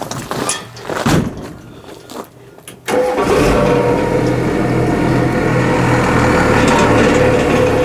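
A truck engine comes in abruptly about three seconds in and runs steadily at idle with an even low pulse. Before it, a few scattered knocks and clatter.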